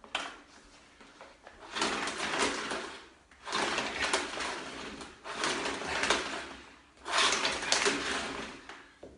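Vacuum cleaner being worked in repeated attempts to start it, giving about five loud rasping bursts of a second or so each, one after another, with no steady running in between.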